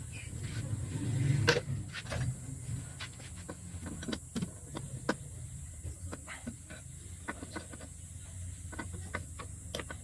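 Irregular light clicks and knocks, typical of hand tools on metal parts during engine work, over a low steady hum. The loudest moment is a short rush building to a knock about a second and a half in.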